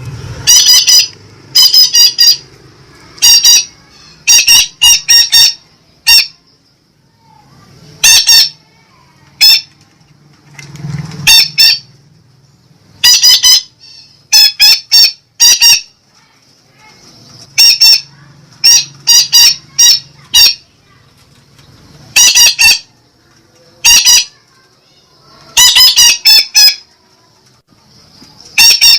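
Parakeet (betet) giving loud, harsh squawking calls in quick clusters of two to four, repeated every second or two.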